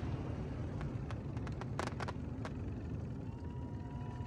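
Fireworks display heard from across a lake: scattered sharp crackles and pops from the tail of the bursts over a steady low rumble. About three seconds in, a faint steady tone starts.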